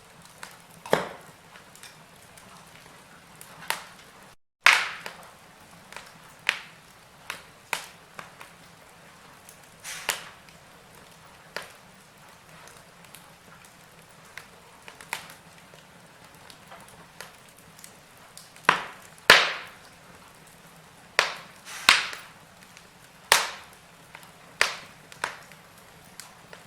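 Wood fire crackling in a fireplace: irregular sharp pops and snaps over a faint steady hiss, with a run of louder pops in the second half. The sound cuts out for a moment about four and a half seconds in.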